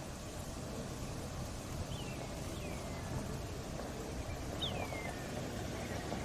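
A bird gives three short whistled calls, each sliding downward in pitch, over a steady low rumbling hiss.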